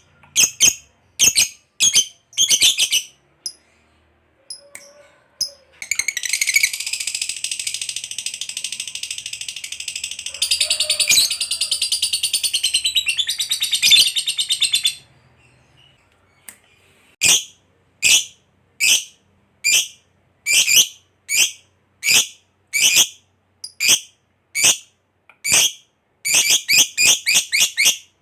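Lovebird calling with sharp, high chirps about once a second. About six seconds in it breaks into a long, unbroken rapid chatter for roughly nine seconds, the long trill hobbyists call ngekek panjang. It then returns to single chirps that come fast near the end.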